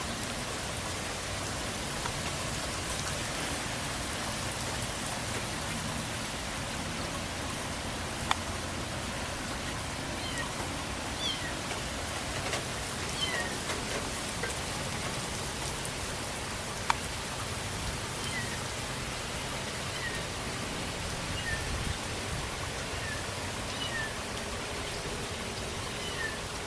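Steady rain falling, with a kitten's faint, short mews repeating again and again from about ten seconds in. Two sharp clicks stand out, one about eight seconds in and one about seventeen seconds in.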